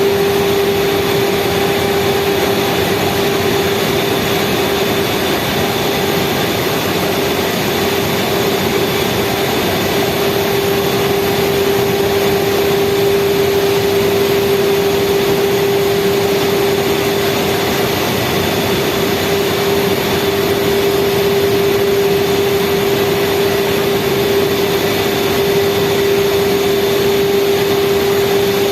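Speedboat engine running steadily at speed: a constant drone with one strong held tone over a rushing noise, with no change in speed.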